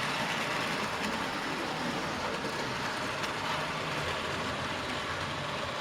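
Model train running steadily along the layout's track: an even rumble and whirr of motor and wheels on the rails.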